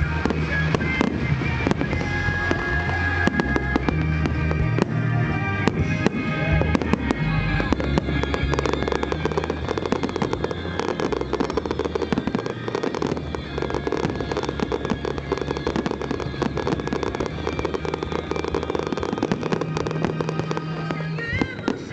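Aerial fireworks bursting and crackling in rapid, dense succession, with music playing underneath.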